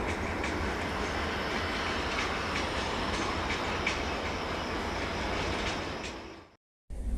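An LHB passenger train's coaches rolling away along the track: a steady rumble of wheels on rail with a few light clicks. It fades out about six seconds in.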